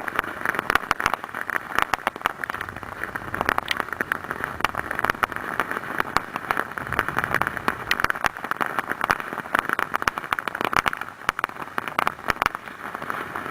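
Small ground fireworks burning with a steady hiss and dense, rapid crackling pops.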